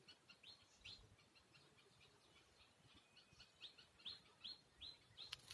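Faint bird chirps, a rapid series of short high notes several a second, with a single sharp click near the end.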